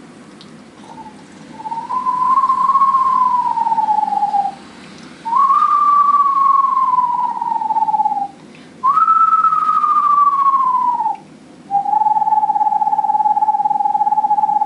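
A person whistling an imitation of a bird's call: four long notes, the first three swelling up and then sliding down in pitch, the last held level and running past the end.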